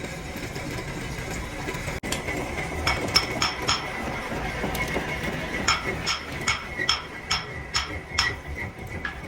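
Hammer blows on steel, each a sharp ringing clink: a few blows about three seconds in, then a steady run of about seven at roughly two and a half a second.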